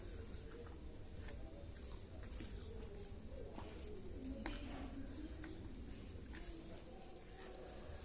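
Faint wet chewing and soft mouth clicks of someone eating chicken and rice, over a steady low hum.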